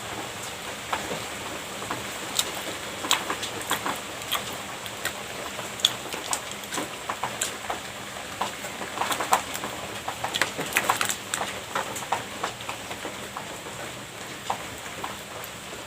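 Heavy rain hissing steadily, with irregular close clicks and smacks of someone eating pastry.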